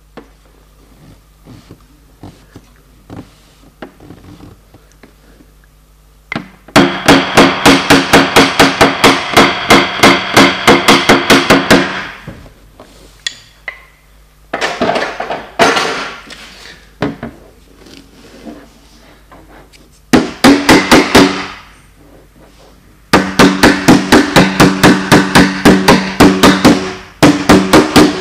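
Paintless dent repair tapping: a small hammer striking quickly at about five light taps a second on car body sheet metal, which rings with each tap. The tapping comes in several runs of a few seconds each, after a few scattered soft clicks at the start.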